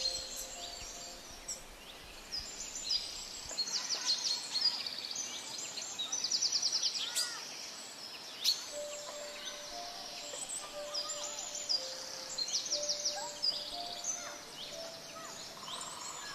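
Forest birds chirping and calling over a steady background hiss. There are fast trills about 4 s in, around 6–7 s and again around 12–13 s, and repeated whistled notes come and go.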